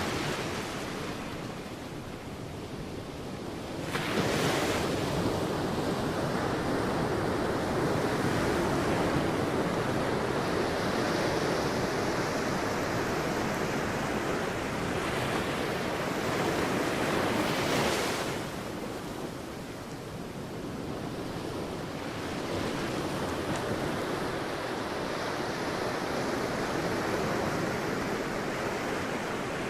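Sea waves breaking on a beach and washing up the shore, with the surf surging as waves break about 4 and 18 seconds in, easing in between.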